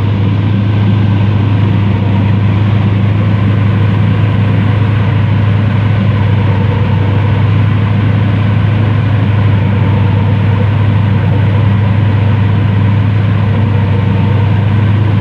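Airboat's engine and propeller running at a steady speed, a loud, even drone with a deep hum.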